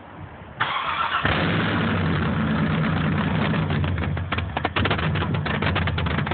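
Cammed GM LS V8, with an HPE Megadeath camshaft and LS6 243 heads, on its untuned first start-up. The starter cranks briefly, the engine catches about a second in and settles into a choppy, uneven idle.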